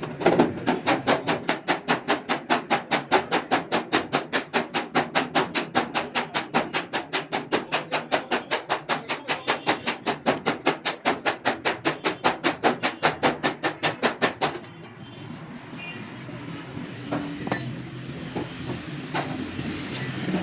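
Hammer beating out a dented car door panel by hand: fast, even strikes, about five a second, that stop about fourteen seconds in, followed by a few scattered taps.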